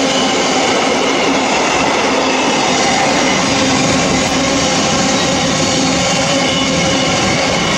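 Freight train's wagons rolling through the station at speed: a loud, steady rolling noise with a few held tones that doesn't change.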